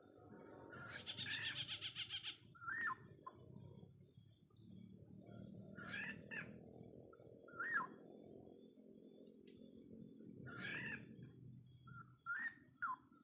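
Birds calling: a fast, harsh chattering call about a second in, then a handful of short sliding notes scattered through the rest, two in quick succession near the end.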